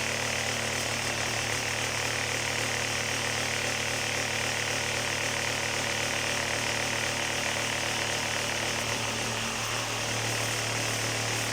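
Vibrating table running with wet concrete in a mould: a steady mechanical drone and buzz that shifts slightly in its low hum about nine and a half seconds in.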